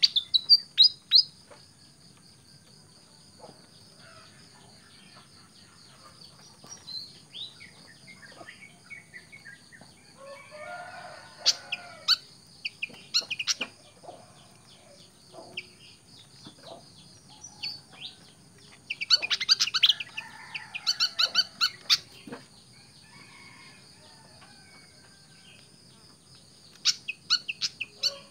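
Fantail chirping in bursts of quick, high notes, busiest about a third of the way in and again after two-thirds, with quieter single chirps between.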